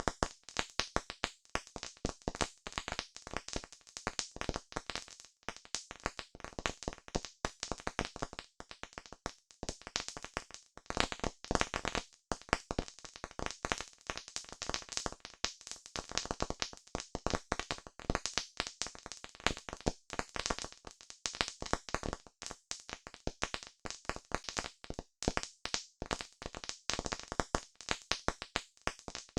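Campfire crackling: wood burning with a dense, irregular stream of sharp pops and snaps.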